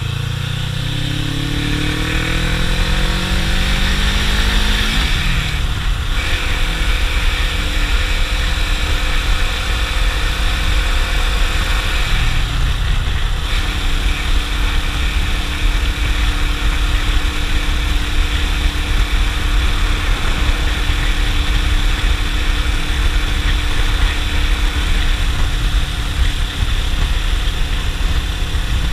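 Suzuki GS500E's air-cooled parallel-twin engine accelerating, its note rising over the first five seconds, with brief dips at gear changes about five and thirteen seconds in, then holding steady at cruising speed. Heavy wind rumble on the helmet camera's microphone underneath.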